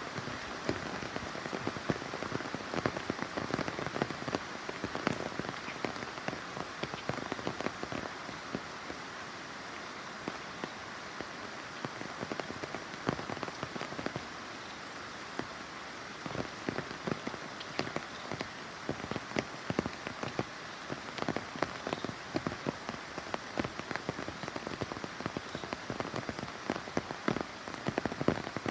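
Steady rain, with many separate drops striking close by over the constant hiss of the downpour. A faint steady high tone runs underneath.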